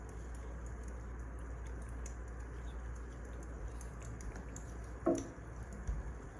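Wood fire crackling: scattered small snaps and pops over a steady low hiss, with one louder, brief pop about five seconds in.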